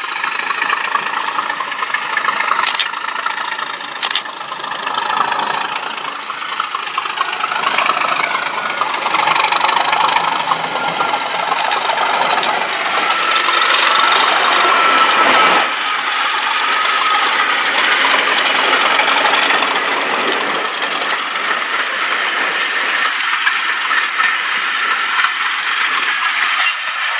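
English Electric Class 37 diesel-electric locomotive running under power, its V12 engine making a loud, steady noise with a high tone over it, and a couple of sharp clicks in the first few seconds.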